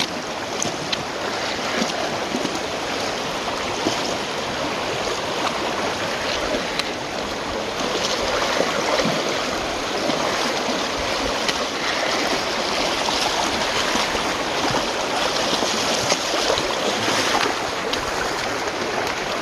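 Rushing water of a creek running high after heavy rain, a steady loud roar, with scattered short clicks and knocks over it.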